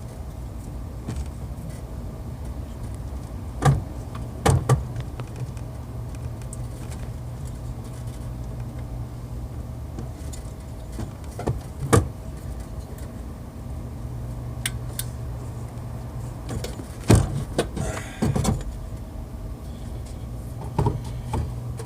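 Scattered sharp metallic clicks and knocks from parts and tools being handled during alternator work, over a steady low hum.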